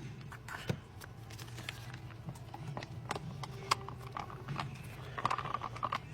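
An MRE main-meal foil pouch being handled and opened: scattered crinkles, clicks and rustles of the packaging, over a low steady hum.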